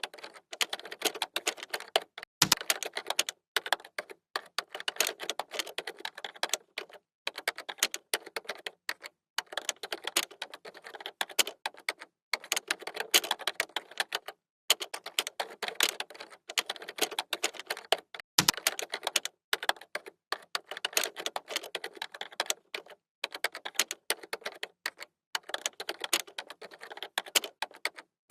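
Typing on a computer keyboard: rapid runs of key clicks broken by short pauses, with a couple of heavier, deeper keystrokes among them.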